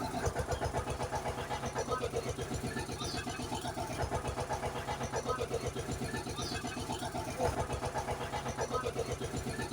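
Looped vehicle engine sound effect: a fast, even engine throb with a short pattern repeating about every two and a half seconds.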